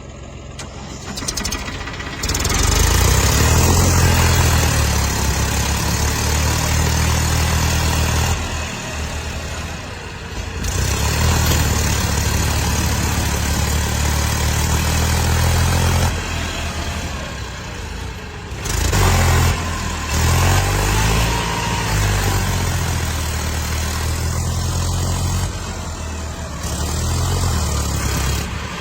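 Tractor diesel engines running and revving, with a loud wide noise over the engine note. The sound changes abruptly several times.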